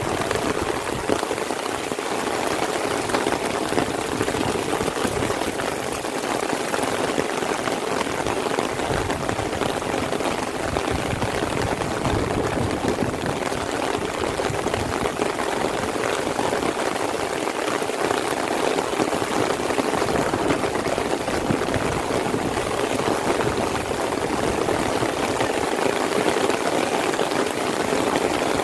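Heavy rain falling steadily, a dense even hiss made of countless drops.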